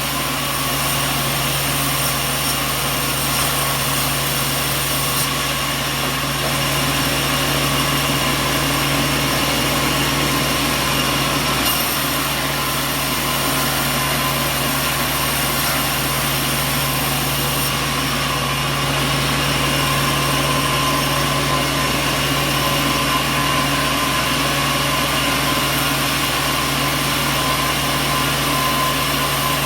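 Sawmill machinery running steadily with a continuous hum, without cutting.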